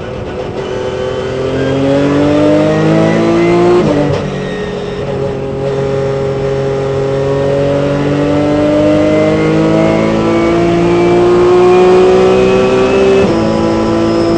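Porsche 997 Cup race car's flat-six engine heard from the cockpit under acceleration, its pitch climbing through the revs, with an upshift about four seconds in and another near the end.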